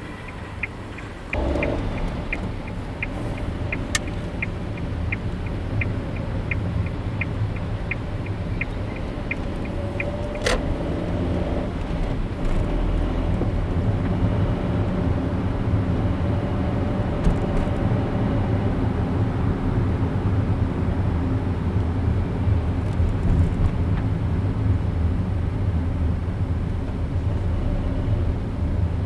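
Car interior: steady engine and road rumble, which steps up in loudness about a second in. Over it a turn-signal indicator ticks evenly, about three ticks a second, and stops about ten seconds in. Two sharp clicks fall near the fourth and tenth seconds.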